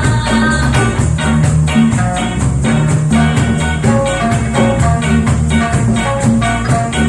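Live reggae band playing an instrumental passage: a steady bass line and drum kit under a regular rhythm, with short plucked-string melody notes over them.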